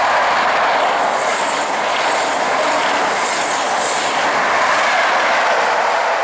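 Class 43 HST power car and its Mk3 coaches passing at speed: a steady loud rush of wheels on rail and moving air, with hissy peaks about a second and a half in and again around three to four seconds in.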